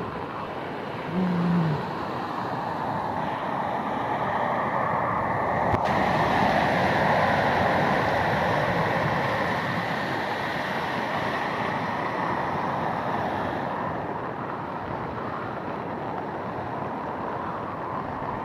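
Floodwater rushing steadily, swelling a few seconds in and easing off again later.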